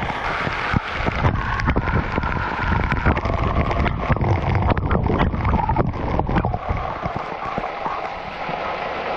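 Small waterfall pouring onto and around a GoPro Hero8, heard through the camera's own microphone: a loud rushing and buffeting with many crackles and a heavy low rumble, easing about two-thirds through to a steadier rush of water.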